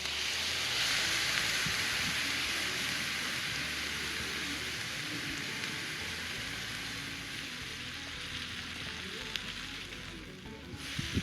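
Food frying in a pan, a steady loud sizzle that fades away near the end.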